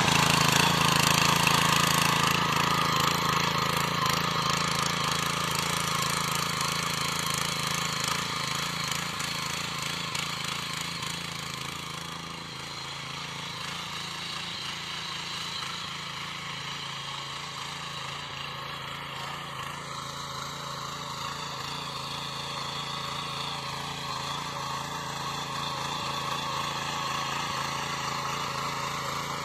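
Sraja power weeder's small engine running steadily while tilling, growing fainter over the first dozen seconds and then a little louder again toward the end.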